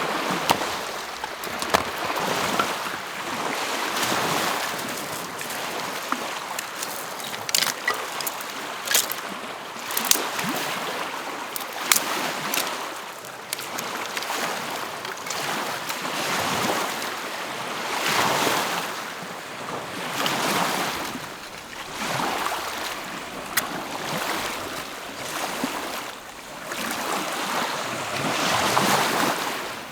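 Small lake waves washing onto the shore, each swell rising and falling about every two seconds, with scattered sharp clicks.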